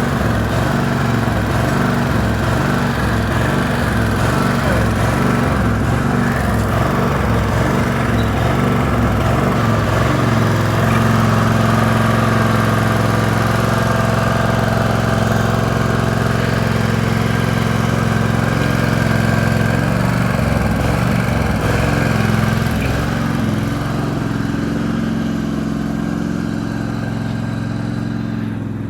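Tractor engine running, with an uneven, pulsing note for the first ten seconds or so, then steadier and a little louder, getting quieter near the end.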